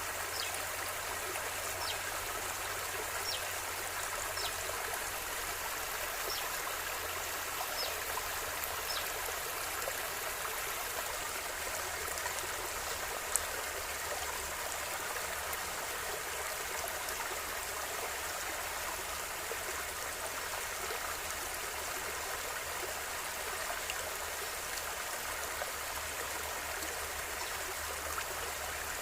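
Steady rushing and babbling of a flowing river, even throughout. A few faint, short high-pitched ticks sound over it in the first third, and one brief sharp click comes a little before the middle.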